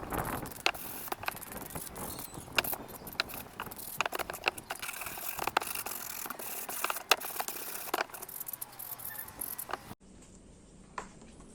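Irregular sharp clicks and light taps over a steady hiss, stopping abruptly about ten seconds in.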